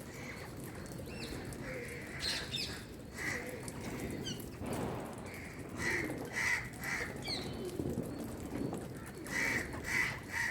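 A parrot chirping: short, repeated calls, coming in quick runs about six seconds in and again near the end, with a few higher gliding notes between, over a steady background hiss.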